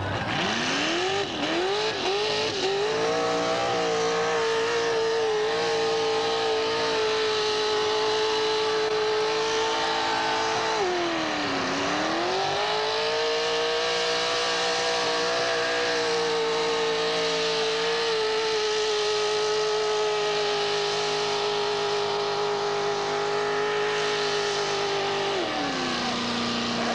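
Mud-racing vehicle's engine revving hard off the start and held near full throttle through the mud pit. Its pitch dips sharply about eleven seconds in and climbs back, then drops as the throttle comes off near the end.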